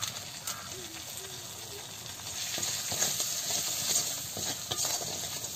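Ground spices (turmeric and chilli powder) with curry leaves frying in hot oil in an aluminium kadai, sizzling, with a metal spatula scraping and stirring against the pan. The sizzle grows louder about halfway through as the stirring starts.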